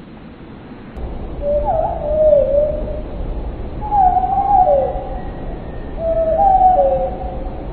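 A bird calling in low whistled phrases that glide down and up in pitch, repeated every two seconds or so, beginning about a second in over a steady low rumble that starts at the same moment.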